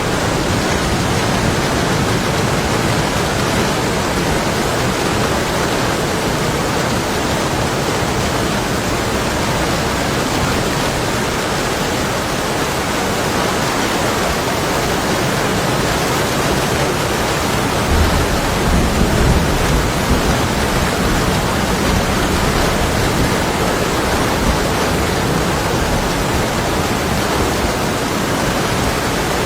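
Heavy storm rain beating on window glass in a steady, dense hiss, with a low rumble of distant thunder about eighteen seconds in.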